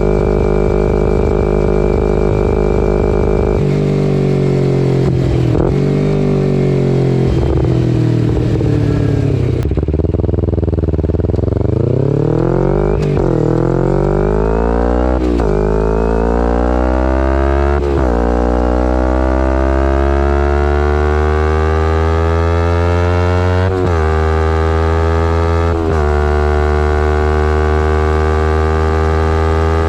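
2011 Kawasaki Ninja 250R's parallel-twin engine through a full Graves race exhaust, under way. Engine speed holds steady for a few seconds, then falls off and wavers. From about ten seconds in the bike accelerates, the exhaust note climbing and then dropping sharply at each upshift, about five times.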